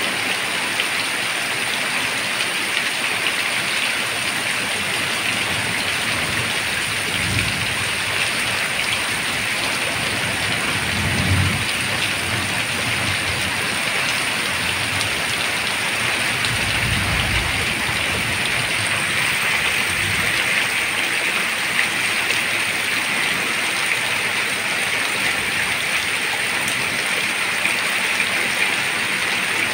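Heavy rain pouring steadily, an even hiss of water on leaves and ground, with a few brief low rumbles in the middle.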